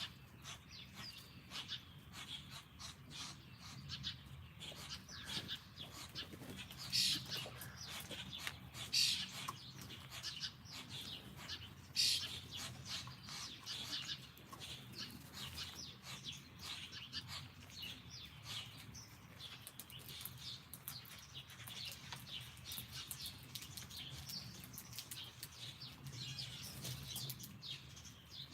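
Small songbirds chirping over and over, many short calls overlapping, with a few louder chirps about seven, nine and twelve seconds in. A faint steady low hum runs underneath.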